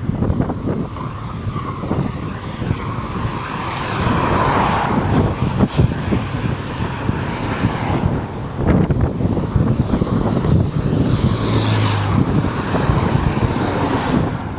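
Motor vehicles passing on a highway, loudest about four seconds in and again near twelve seconds, over a steady low rumble of wind buffeting the microphone.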